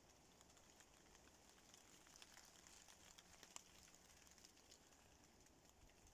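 Faint light rain on oak leaves: scattered drops ticking, a little more often around the middle, over a soft steady hiss.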